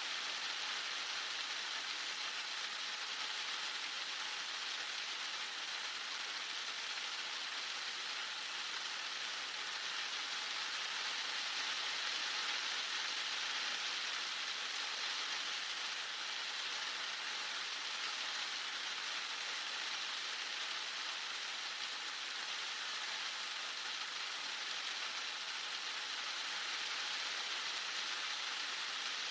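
Heavy rain falling steadily, an even hiss of dense rain with no let-up.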